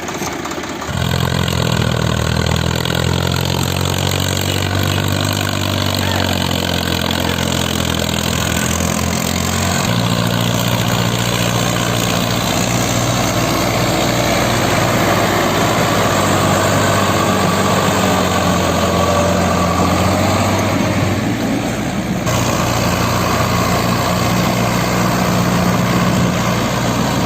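Diesel tractor engine running steadily, getting louder about a second in, with shifts in its tone about ten seconds in and again a little past twenty seconds.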